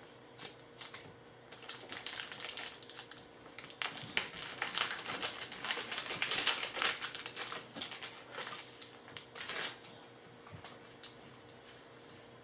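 Trading-card pack wrapper crinkling and rustling as it is opened, with cards clicking and sliding as they are handled, most active in the middle and dying down near the end.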